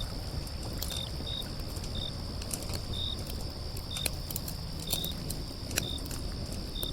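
Outdoor nature ambience: a steady low rumble and hiss with a faint high tone, short high chirps repeating every half second to a second, and occasional faint clicks.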